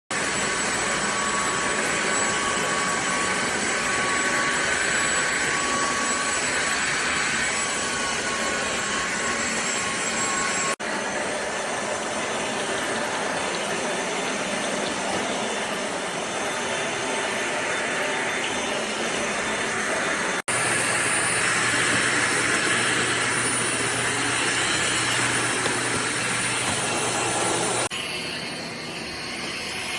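drepre K7 Pro cordless stick vacuum running with a steady rushing noise, in clips joined by abrupt cuts about 11, 20 and 28 seconds in; it is quieter after the last cut.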